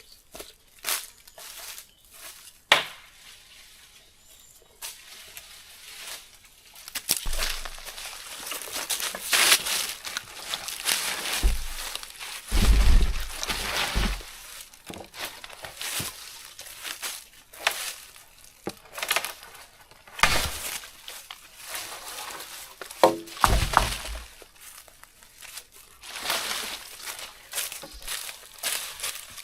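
Irregular rustling and crinkling of something being handled, with scattered sharp clicks and knocks; it gets busier around the middle, with a few low thumps.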